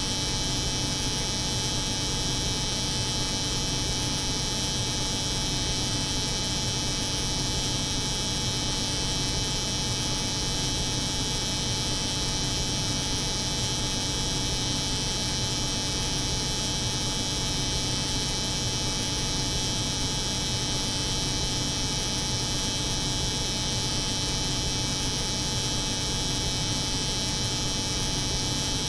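Steady, unchanging layered hum: an electric hair clipper buzzing over the hum of a cold room's refrigeration unit.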